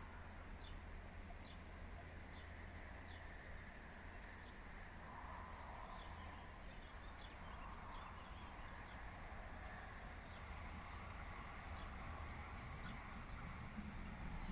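Faint open-air ambience: small birds chirping in short, scattered high calls over a steady low hum that grows slightly near the end.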